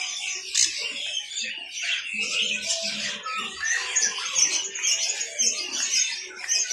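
A crowd of caged birds chirping and squawking at once, a dense overlapping twittering that never lets up, with faint voices underneath.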